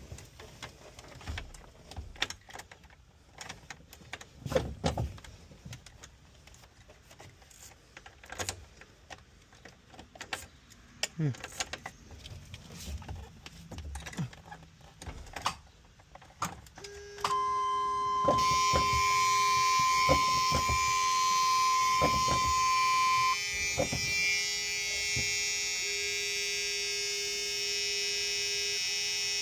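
Scattered knocks and clicks, then about seventeen seconds in the short bus's electrics come on: a steady electric buzz with a high warning tone for about six seconds and a lower tone that keeps going.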